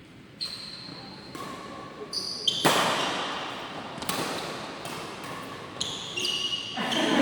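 Badminton play on an indoor court: sneakers squeaking on the floor, with sharp racket hits on the shuttlecock. Voices echo in the hall, louder from a few seconds in.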